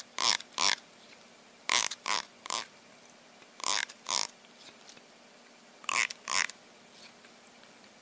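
A pet animal making short, noisy, breathy sounds in groups of two or three, the groups coming about every two seconds.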